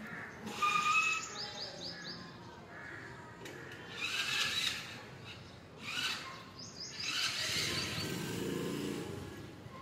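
Birds chirping in short bursts of quick, high repeated notes.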